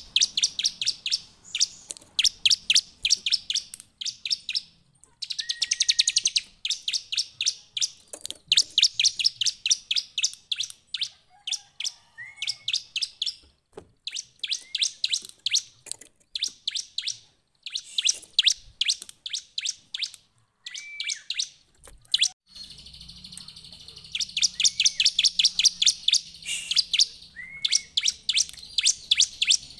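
Bar-winged prinia (ciblek) singing: fast runs of sharp, high chirps, about seven or eight a second, in bursts of a few seconds with short gaps between them. Some runs open with a short rising note.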